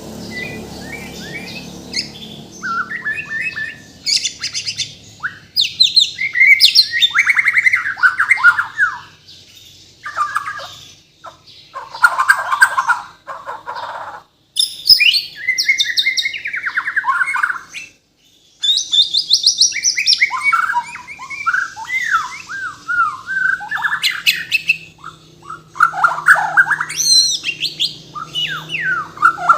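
A Bornean shama (murai batu) singing a loud, varied song of rapid whistles, fast trills and chattering phrases, packed with mimicked calls, broken by short pauses.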